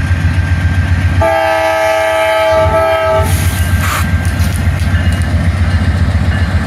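Diesel freight locomotive running with a steady, pulsing rumble. About a second in, it sounds its multi-chime air horn in one blast of about two seconds, followed by a brief hiss.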